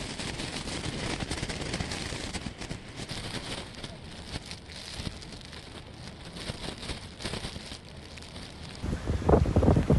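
Hurricane wind and rain: a steady rushing hiss with fine crackling throughout. About a second before the end, loud gusts buffet the microphone.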